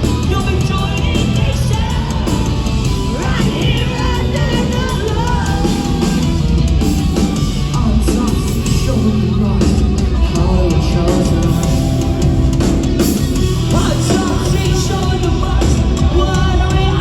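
Live rock band playing loud, with heavy guitars, drums and sung and shouted vocals.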